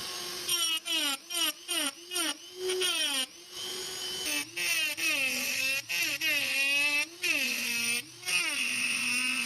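A power tool's motor whose pitch dips and recovers over and over in short strokes, with brief breaks, as it is repeatedly loaded and eased off.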